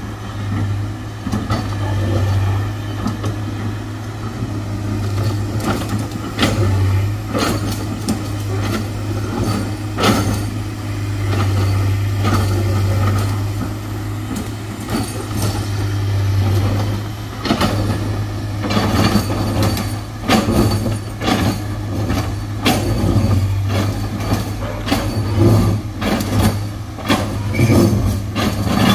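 Heavy diesel engine running steadily under load, with many sharp knocks and clanks, more frequent in the second half, of metal and rock being struck.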